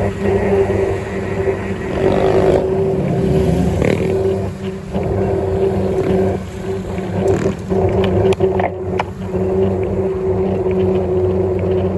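A vehicle's motor running at a steady pitch during a ride, with rough rushing noise over it and a few short clicks and knocks in the second half.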